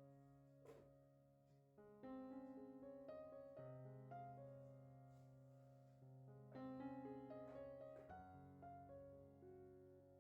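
Soft background piano music, slow chords struck every second or two and left to die away.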